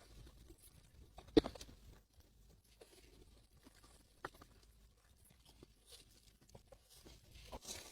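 Close-up eating sounds: one sharp crunchy bite about a second and a half in, followed by a few faint crunches and chewing.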